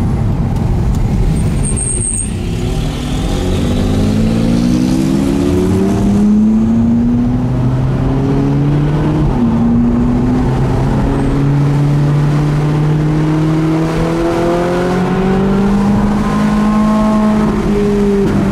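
Ferrari 458 Italia's V8 heard from inside the cabin, accelerating away from a roundabout. The engine note climbs steadily and drops back at each upshift, about twice.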